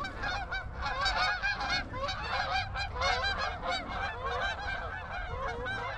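A large flock of geese calling at once, many overlapping honks in a steady chorus, as they come in over the decoys.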